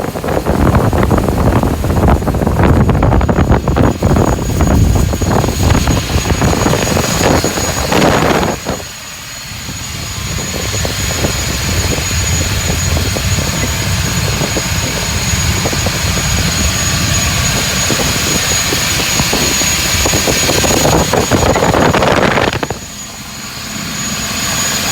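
Scania diesel engine running hard under test with a high steady whine. It drops back sharply about nine seconds in, builds up gradually over the next dozen seconds, drops again near the end, then picks up once more.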